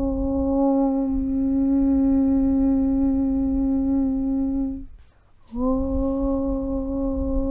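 A voice chanting a long, steady 'Aum' on one low held pitch. It breaks off about five seconds in and starts again half a second later.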